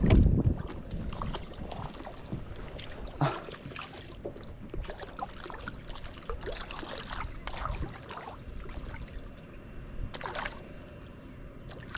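Scattered small splashes, drips and knocks around a small boat on the water, with a loud low rumble of wind or handling on the microphone right at the start.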